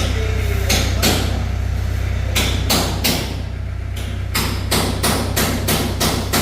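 Repeated hammer blows on metal, a few spaced out at first, then a steady run of about three strikes a second in the second half, over a steady low hum.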